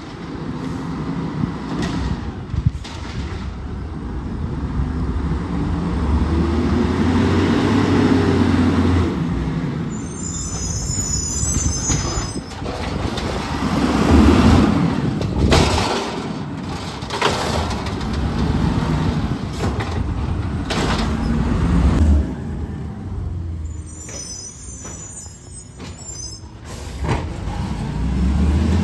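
Garbage truck's engine running and revving, its pitch rising and falling, with two brief high-pitched squeals along the way.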